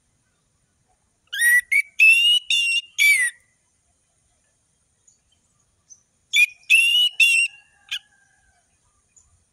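Orange-headed thrush singing: two short phrases of clear, sliding whistled notes, the first about a second in and the second a little past the middle.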